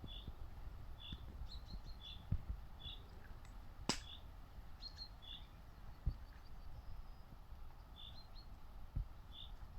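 A small bird gives short, high chirps again and again at uneven intervals over a low outdoor rumble. There is a sharp click about four seconds in and a few soft low thumps.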